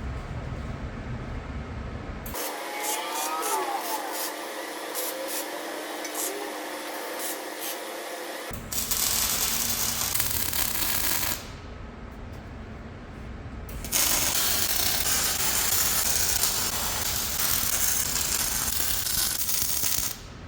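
MIG welder laying stitch welds on heavy steel flat bar and angle, heard as a steady crackling hiss. There is a run of about three seconds and then, after a short pause, a longer run of about six seconds that cuts off near the end.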